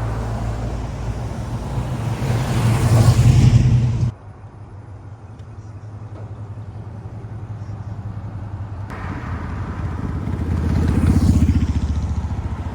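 Car engines running, with the sound swelling loud twice, as when cars drive past. It cuts off abruptly about four seconds in and drops to a quieter rumble, then changes sharply again before the second swell.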